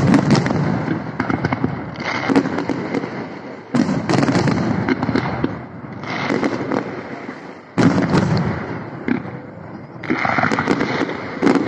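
Aerial firework shells bursting: five sudden loud bangs, at the start and about four, eight, ten and eleven and a half seconds in. Each is followed by crackling and a dying rumble.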